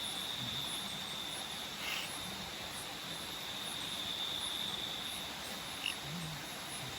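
Nocturnal tropical forest insects: a steady high-pitched trill, with a fainter, evenly pulsing chirp above it. There is a short, sharp blip about six seconds in.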